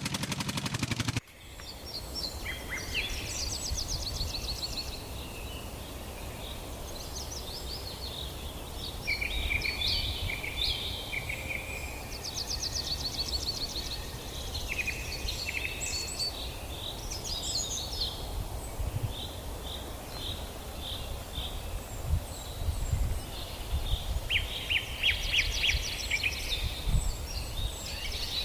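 Birds chirping and trilling over a low outdoor rumble. In the first second a loud steady motor-like noise plays, then cuts off abruptly.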